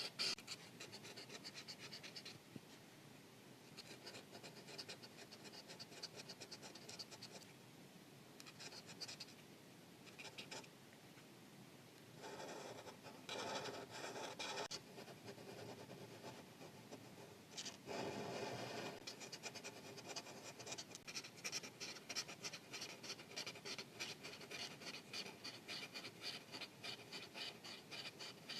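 Felt-tip marker scratching across paper while coloring in, in stretches of separate strokes. In the last third it turns into a quick, steady run of short back-and-forth strokes.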